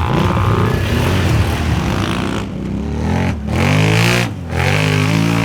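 4x4 ATV engine revving hard under load, its pitch wavering and climbing. The throttle drops off briefly twice in the second half, then the engine picks up again.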